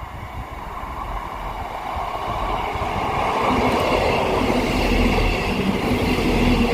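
A South Western Railway electric train approaches through the station, its running noise growing steadily louder over the first few seconds, then rolls past at full level with a low steady hum.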